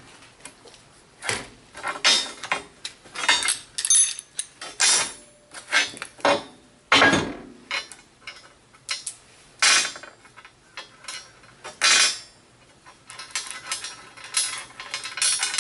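Pieces of metal stock clanking and clinking together as they are picked up and shifted about, in irregular knocks with a short metallic ring.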